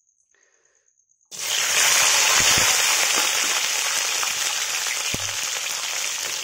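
Cauliflower florets dropped into hot oil in a steel kadhai: a loud sizzle starts suddenly about a second in and keeps going steadily. There are a couple of low knocks partway through.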